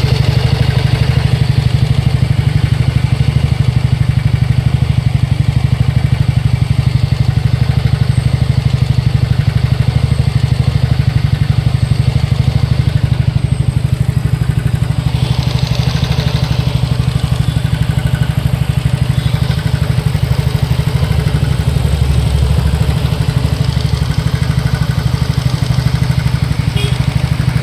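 TVS Ntorq 125 BS6 scooter's single-cylinder engine idling steadily with a mechanical noise, which the mechanic puts down to a slightly loose starter one-way clutch and loose tappets.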